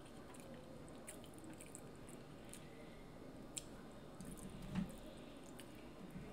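Faint, wet close-mic chewing of seafood, with scattered small clicks and mouth noises and one soft knock about three-quarters of the way through.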